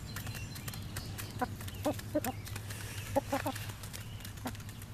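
Hens clucking in short calls, a few at a time, while feeding on scattered wheat grain, with light ticks in between.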